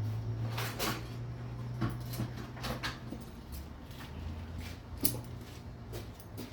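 Scattered clicks and knocks of hand tools being handled and set down, with a low hum through the first half.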